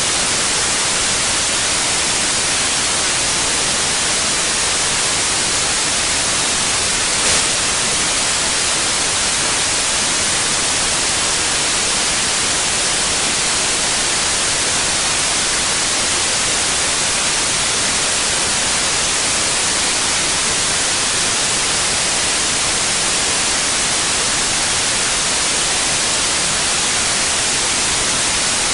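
Steady white noise: an even, unchanging hiss, brightest in the treble. One faint click about seven seconds in.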